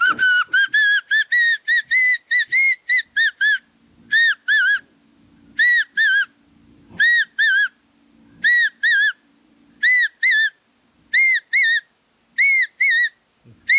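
A man whistling an imitation of the call of the biu bird. It opens with a quick run of about a dozen short notes, slowly rising in pitch, then settles into pairs of short arched notes repeated about every second and a half.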